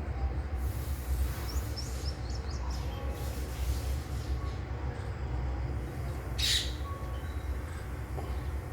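Parrots and munias calling: a few thin, high chirps about a second in, then one loud, harsh call about six and a half seconds in. A steady low rumble runs underneath.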